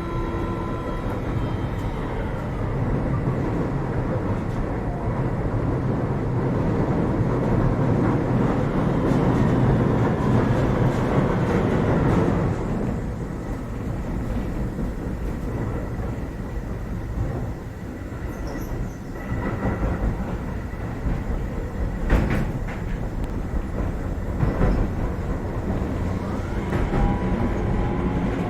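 Keio 7000 series electric train running, heard inside the passenger car: a steady rumble of wheels on rail that swells and then eases, with a few sharp knocks from rail joints about two-thirds of the way through.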